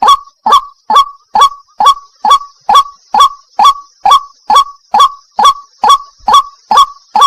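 White-breasted waterhen (wak-wak) calling: a short 'wak' note repeated at an even pace, a little over two calls a second. A faint steady high hiss runs underneath.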